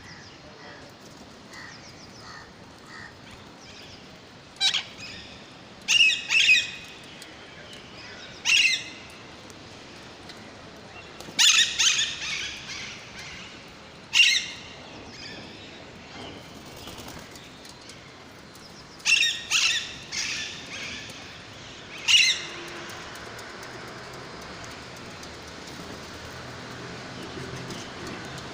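Young pet parrots calling: a series of short, sharp screeches, some in quick pairs, with fainter chirps at first.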